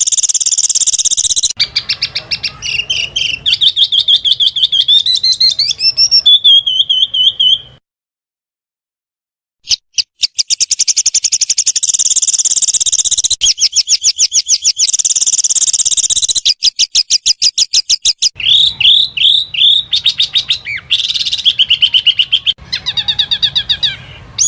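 Small songbirds giving fast, rapid-fire trills and high chirps, spliced together from different recordings so the pattern changes every second or two. The calls stop for about two seconds of silence about eight seconds in.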